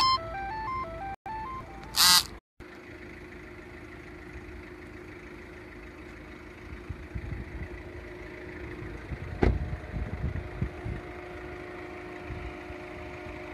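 Tata Nexon's 1.5-litre four-cylinder turbo-diesel engine idling steadily with the car parked. A quick run of electronic beeps falling in pitch plays in the first two seconds, and a single sharp click comes about nine and a half seconds in.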